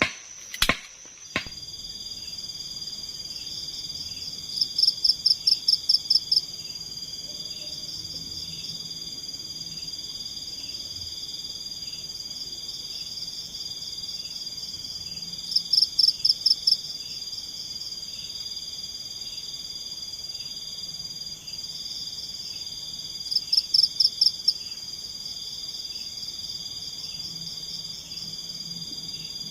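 Forest chorus of insects and frogs: a steady high-pitched trilling, broken three times by a loud call of about ten quick pulses lasting a second or two. Two sharp knocks come in the first second and a half.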